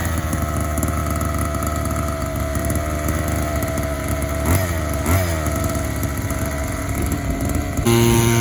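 Small two-stroke gas engine of an RC monster truck idling, with two short throttle blips in the middle and a rise in pitch near the end.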